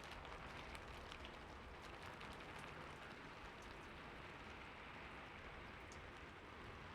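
Soft, steady rain falling, with a dense hiss and scattered sharp ticks of individual drops striking a surface.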